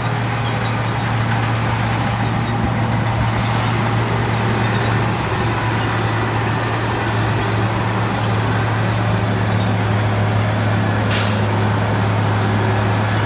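Heavy diesel engine of construction machinery running steadily with a deep, even drone. A short burst of air hiss comes about eleven seconds in.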